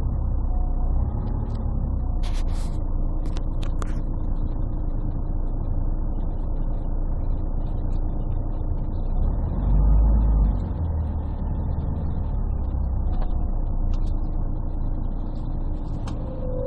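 Inside a 1998 Scania CN113CLL city bus on the move: its Scania DSC 11 diesel engine running with a continuous low rumble, heard muffled and bass-heavy through a partly covered phone microphone. A few sharp clicks come two to four seconds in, and a brief louder low surge about ten seconds in.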